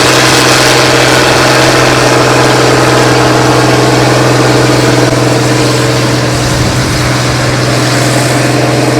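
Large tractor engine running steadily under load as it pulls a big plow, a continuous low drone that eases a little after about the middle.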